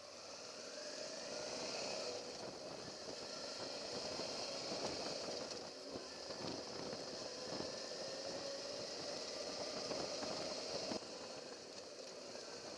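Suzuki V-Strom motorcycle engine running, with a steady tone that slowly rises and falls under a steady high hiss; the sound drops away abruptly near the end.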